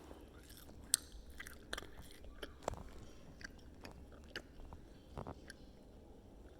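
A person chewing and biting into a piece of chicken, with irregular, faint crunches and mouth clicks.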